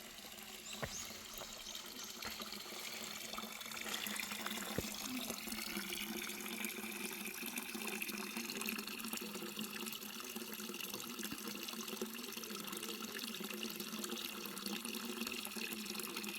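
Water trickling and splashing steadily, a small stream or spring flow.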